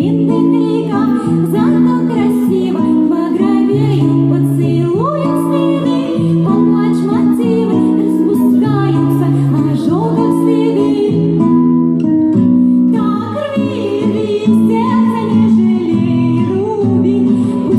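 A song: a woman singing over guitar accompaniment.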